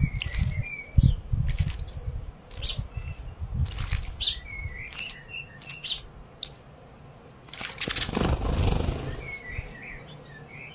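Small aviary birds chirping with short, high, repeated chirps, among splashes and wing flutters from birds bathing in water. A longer stretch of splashing noise comes about eight seconds in.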